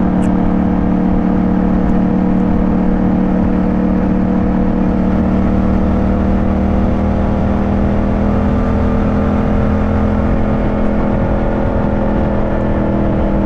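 Yamaha parallel-twin motorcycle engine running steadily while riding, with low wind rush. Its pitch eases down slightly in the second half.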